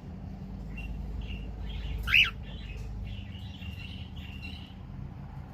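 Cockatiel chirping softly, with one louder, short call about two seconds in.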